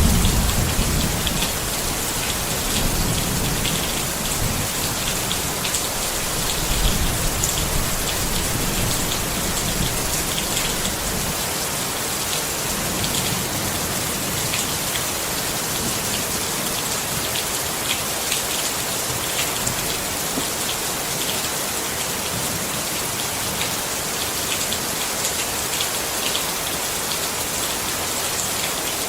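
Steady rain pattering on a tent, dense individual drop hits over an even hiss. A low rumble runs under it through the first half and dies away around the middle.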